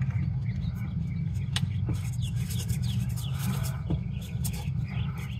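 Birds chirping over a steady low rumble, with a few light clicks.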